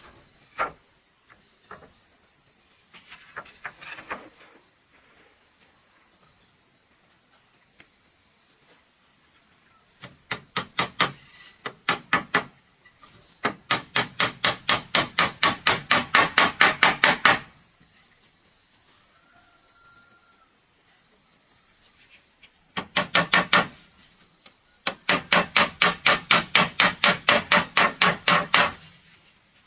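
Rapid hammer blows on wood, about four to five a second, in several runs that grow louder as each run goes on. A steady high insect drone runs underneath.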